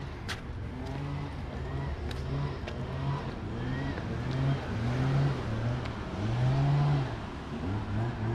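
A car engine on the street, its pitch rising and falling repeatedly and loudest about five and seven seconds in, with a few sharp clicks over steady street noise.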